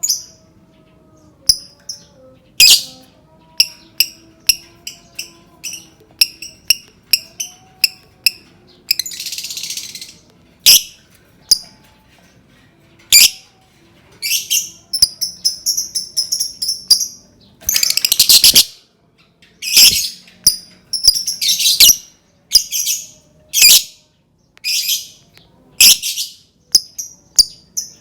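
Lovebird calling: loud, shrill single chirps and quick runs of chirps, with a harsh buzzy call about nine seconds in and fast chattering rattles in the second half.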